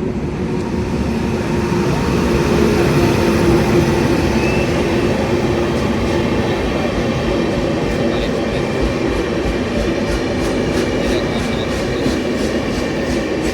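Passenger train running past at speed: a loud, steady rumble with a humming tone. From about halfway through, a regular clickety-clack of the wheels comes in, several clicks a second.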